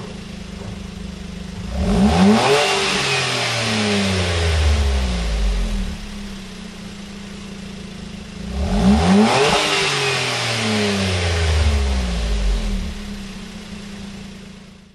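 Suzuki Alto HA36S's 660 cc turbocharged three-cylinder engine breathing through a stainless-steel KC Technica GT 'Street' aftermarket muffler: idling, then revved twice, about two seconds in and again near nine seconds, each rev climbing sharply and sinking back to idle. The sound fades out at the very end.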